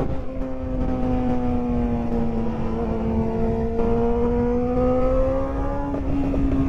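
Inline-four sportbike engine at sustained high revs under way, its pitch sagging slightly, then climbing, then stepping up a little near the end. Heavy wind buffeting rushes underneath.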